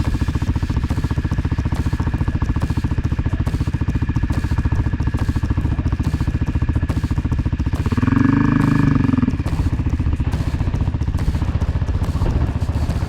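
Dirt bike engine running steadily under way, getting louder for about a second some eight seconds in.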